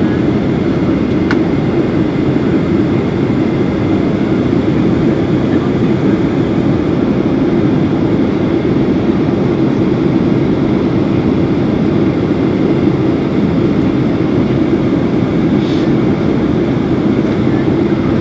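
Steady cabin noise inside a Boeing 737-800 in flight: the even low rumble of airflow and its two CFM56-7B engines, with no change in pitch or level.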